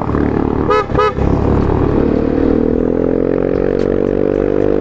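Yamaha Mio i 125 scooter's single-cylinder engine, fitted with a larger 135cc fuel injector, pulling up a steep incline under load, its pitch rising slowly and steadily as it climbs. Two short beeps come about a second in.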